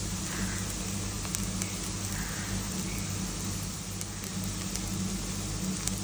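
Chopped onions and curry leaves frying in oil in a nonstick pan: a steady sizzle with a few faint crackles, over a constant low hum.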